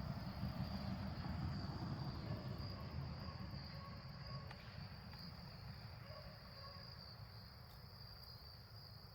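Insects trilling steadily at a high pitch, over a low rumble that is loudest in the first few seconds and then fades.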